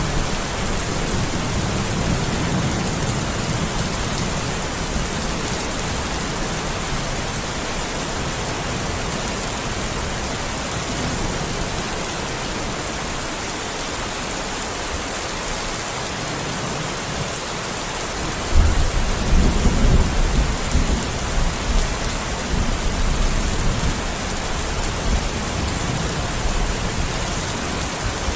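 Steady heavy rain hissing, with thunder: a low rumble fades out over the first few seconds, then thunder breaks suddenly about two-thirds of the way in and rolls on in swells.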